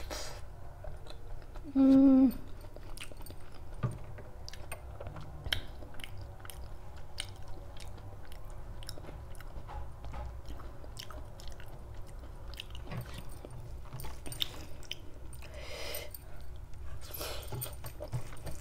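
Close-up chewing and wet mouth sounds of a person eating chicken kofta curry with rice by hand: many small clicks and smacks throughout. A short hummed "mm" about two seconds in is the loudest sound.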